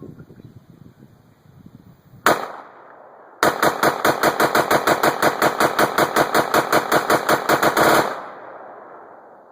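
Smith & Wesson M&P15 AR-15 firing 5.56 mm rounds. A single shot comes about two seconds in, then a second later a fast, even string of shots follows, about six a second for some four and a half seconds, as the rifle is bump-fired through its Geissele SDE trigger.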